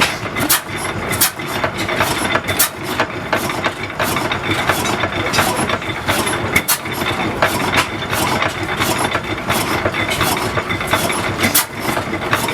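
1884 Crossley slide-valve stationary gas engine running after start-up, with sharp clicks and knocks from its open crank and valve gear coming once or twice a second over a steady mechanical clatter.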